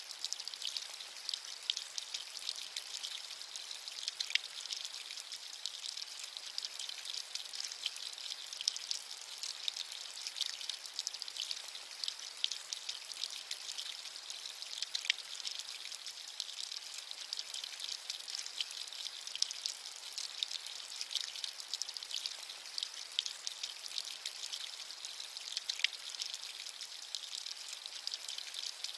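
Steady rain, with many fine raindrop ticks and patters falling densely and evenly throughout.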